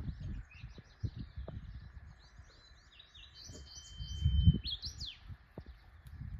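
Several birds chirping in a morning chorus, with one clearer song of quick stepped notes and a held whistle about three to five seconds in. A low rumble comes and goes underneath and is loudest about four seconds in.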